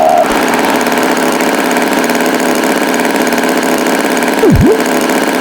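Tractor engine sound effect running steadily. About four and a half seconds in, a brief tone swoops sharply down and straight back up over it.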